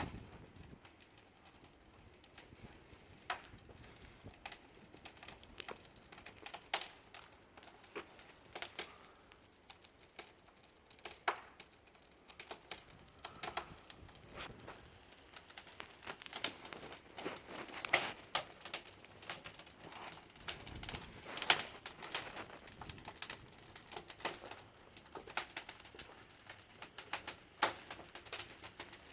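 Wood fire crackling, with irregular sharp pops and snaps that grow denser and louder in the second half.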